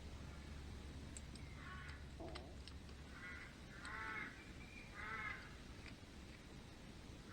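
Faint, harsh bird calls, about four in a few seconds, with a few light metallic clicks.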